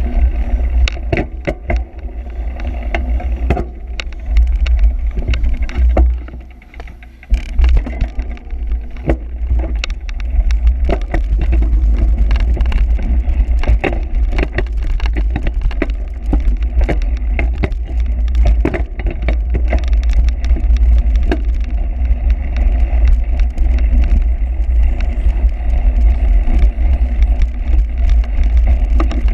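Cyclocross bike ridden over rough ground: heavy wind rumble on the microphone with frequent rattles and knocks from the bike, easing briefly about six seconds in.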